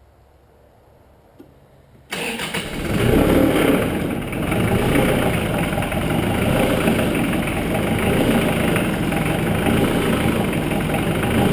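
Case IH DX55 Farmall tractor's diesel engine cold-starting: it fires suddenly about two seconds in, runs up loudly for a moment, then settles into a running idle that pulses, which the owner puts down to the cold and a fuel filter that is due for changing.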